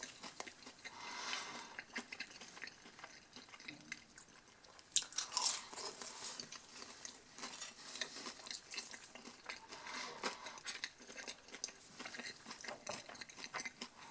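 A person biting into a coated onion ring and chewing it, with crisp crunches; the loudest bite comes about five seconds in.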